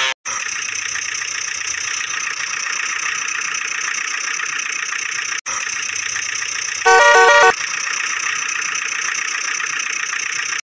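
Tinny, steady toy-vehicle engine running sound, with a short stepped horn honk about seven seconds in.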